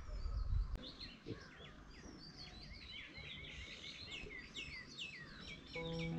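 Small birds chirping, many short high calls that slide downward, over quiet outdoor background noise. A low rumble sounds in the first second, and music comes in near the end.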